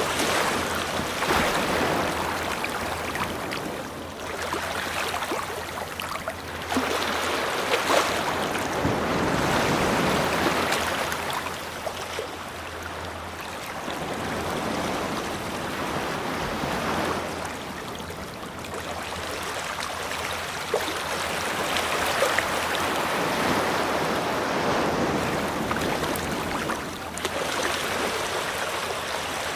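Ocean surf on a beach, waves breaking and washing back in slow swells every few seconds.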